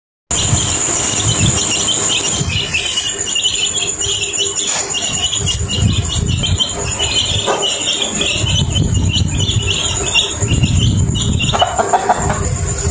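Outdoor nature ambience: a steady high-pitched insect whine over a long run of rapid chirping that stops shortly before the end, with low rumbling underneath.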